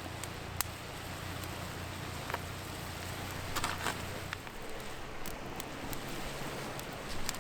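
Food sizzling in a stainless Dutch oven over a wood campfire: a steady frying hiss with a few sharp pops and crackles.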